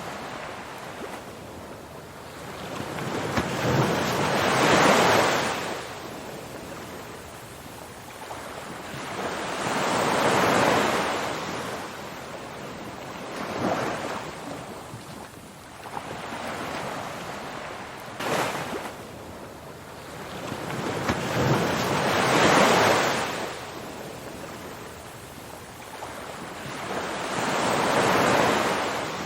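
Ocean waves breaking and washing on a shore, about six swells that each build and fade over a few seconds.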